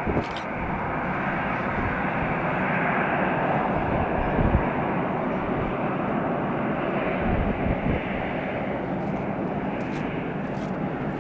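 Jet airliner's engines, a continuous rush that builds over the first few seconds and eases slightly near the end.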